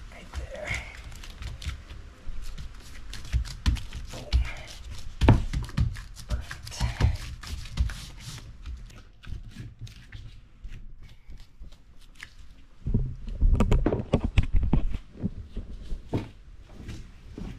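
Hands working with foam floor pieces on a boat deck: irregular crinkling, tearing and knocking, with clusters of heavier thumps a few seconds in and again near the end as pieces are pressed and laid down.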